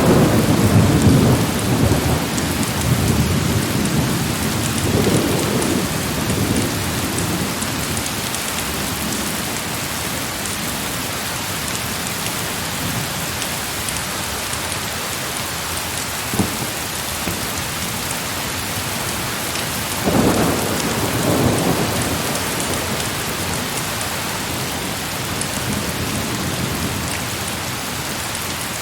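Heavy rain pouring steadily, with low thunder rumbling over the first few seconds and again about twenty seconds in.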